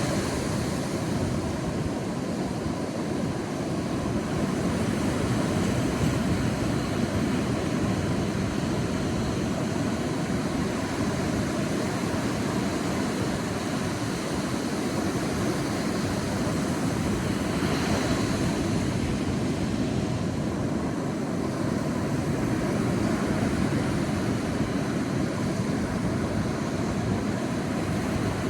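Sea waves washing on a beach: a steady rumble of surf that swells and eases slowly, with a brief hiss of wash near the start and again about 18 seconds in.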